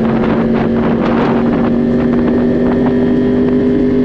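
Motorcycle engine running at a steady pitch while riding at constant speed, with wind rushing over the microphone.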